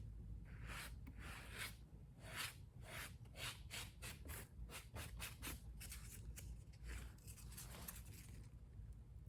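Light rubbing and scraping strokes: a string of short, irregular strokes of a tool or hand on a surface.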